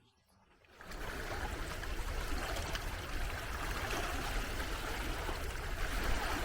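Waves of the Red Sea splashing and washing on the shore, a steady rushing hiss with a low rumble that starts about a second in after a moment of silence.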